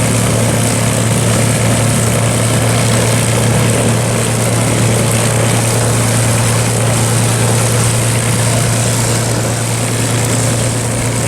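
P-51 Mustang's V-12 piston engine and propeller running steadily on the ground, a loud, even low drone with no change in pitch.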